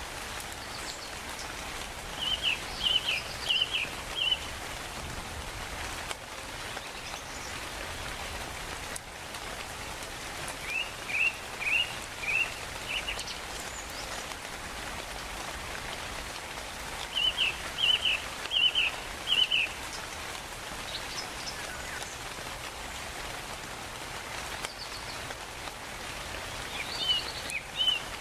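Steady rainfall with a bird calling over it: a phrase of four to six short, sharp notes that comes back about every seven to eight seconds and stands out above the rain.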